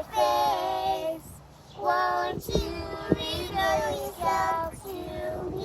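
Children singing a song in held, steady notes, with a short pause about a second and a half in. Two sharp knocks sound near the middle.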